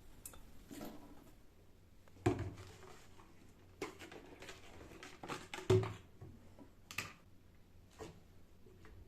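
Irregular light knocks and clicks of household objects being handled and set down, about eight in all, with two louder knocks, one a little over two seconds in and one near the middle.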